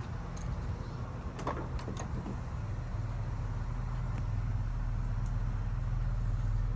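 1976 Chevrolet Blazer's engine running with a steady low hum that slowly grows louder, and a few short clicks or knocks about a second and a half in.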